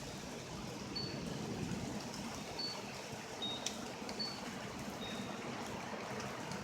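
Steady rain and trickling runoff as a thunderstorm approaches, with a few short, high-pitched peeps scattered through it.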